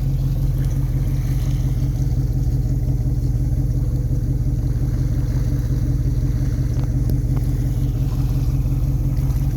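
The Rinker 232 cuddy cabin's sterndrive engine running steadily, a low even drone with no change in pitch.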